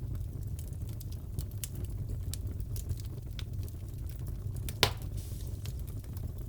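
Wood fire crackling in a fireplace: a steady low rumble of the flames with scattered small snaps, and one loud pop near the end.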